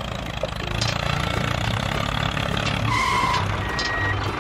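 Tractor engine sound effect running with a low throb, dubbed over a toy tractor. About three seconds in, a few high electronic beeps at two pitches start.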